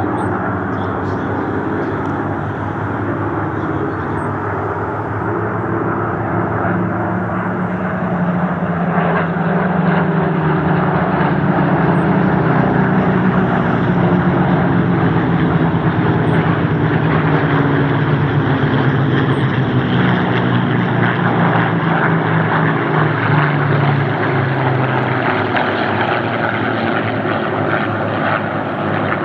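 Spitfire piston engines droning as the fighters fly past, their pitch sliding slowly down. The sound swells about a third of the way in and eases off near the end.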